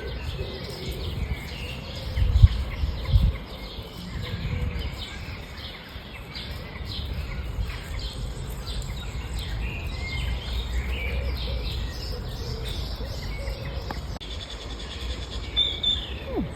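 Birds chirping over a steady low rumble, with two low thumps about two and three seconds in.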